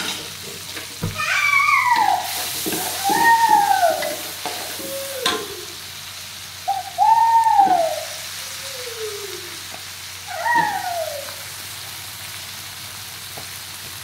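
Sambal and vegetables sizzling in a hot wok while being stirred, with spatula taps and scrapes in the first few seconds. A cat meows several times over the frying, each call rising and then falling. The meows are the loudest sounds.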